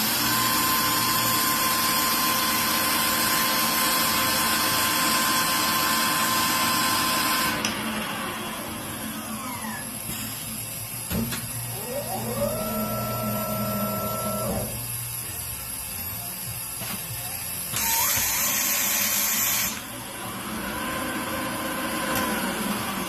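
Machine-shop power tools running during engine rebuild work: a loud steady hiss with a whine for the first seven or so seconds, then quieter running in which a motor spins up, holds its speed and winds down, and a short loud hiss about three-quarters of the way through.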